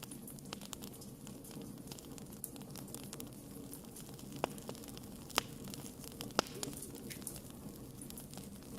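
Wood fire crackling over a steady low rumble, with many small ticks and three louder pops about a second apart in the middle.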